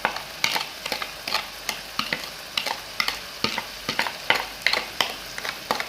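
Chicken and vegetables frying in a pan with a steady sizzle while a spatula stirs them, clicking and scraping against the pan about three times a second.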